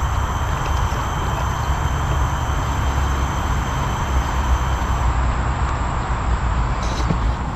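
Steady road traffic noise with a low rumble, and insects trilling in thin, steady high-pitched tones, the highest of which stop about five seconds in.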